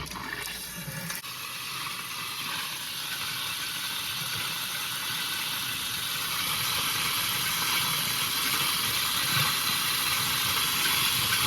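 Cold water running steadily from a tap, a hissing spray that grows slightly louder.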